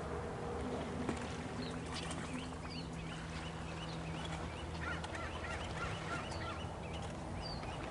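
Many short bird calls repeating over the water, coming thicker from about five seconds in, over a steady low hum.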